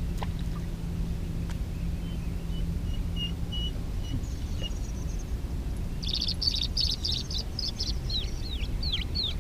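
A songbird singing: a quick run of high notes, then a series of short down-slurred whistles about two a second, over a steady low rumble.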